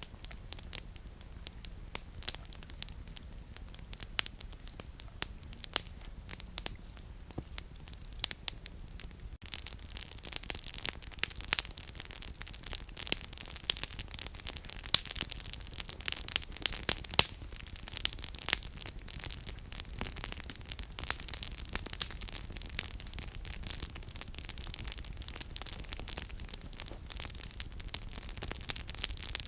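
Wood campfire crackling and popping in a rapid, irregular run of sharp snaps over a soft steady hiss. The crackling grows busier and louder about nine seconds in.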